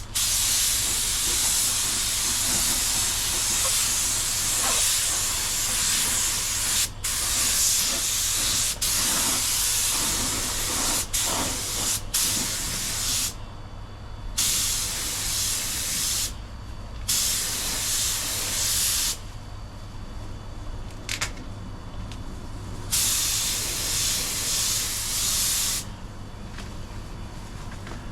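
Compressed-air paint spray gun spraying a bumper in passes. A long hissing pass of about thirteen seconds is followed by shorter passes of two or three seconds, each cut off sharply. A steady low hum runs underneath.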